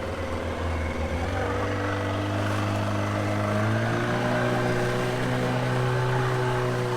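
Motorboat engine running and speeding up in two steps, about a second in and again near four seconds in.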